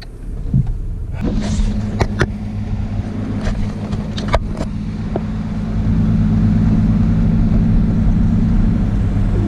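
Holden VS Commodore driving with its engine running, with several sharp knocks from underneath between about two and four seconds in. The engine gets louder about six seconds in. The tail shaft's rubber centre bearing has torn, and the noise is put down to that centre bearing.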